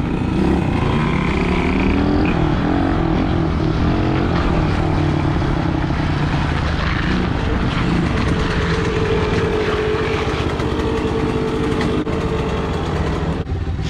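Dirt bike engine running on the move, its pitch rising and falling with throttle and gear changes, with a steadier engine drone in the second half.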